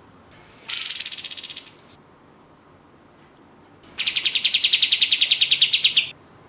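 Kapas tembak (katem) bulbul giving two fast, rattling machine-gun trills of rapid repeated high notes, a short one about a second in and a longer one of about two seconds near the end.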